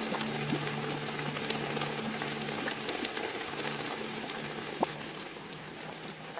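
Steady crackling, rain-like patter with many scattered sharp ticks, and a faint low steady hum that fades out a little over halfway through.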